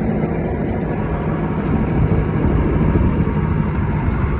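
Mahindra Arjun Novo tractor's diesel engine running steadily while the tractor drives along the road, still without a turbocharger.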